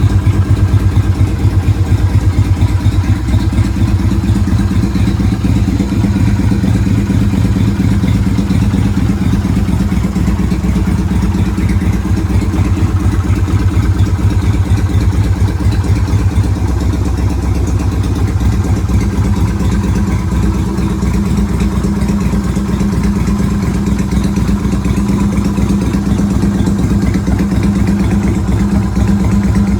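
Yamaha Virago 250's air-cooled V-twin engine running at idle, a steady, rapid, even beat of exhaust pulses.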